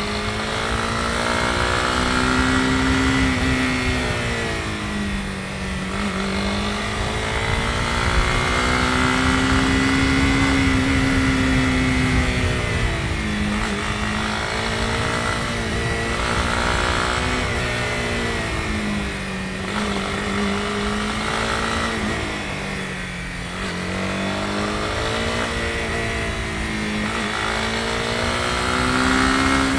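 Honda CB250R's single-cylinder engine running under way, its pitch rising and falling several times as the throttle is opened and eased off, over steady wind and road noise.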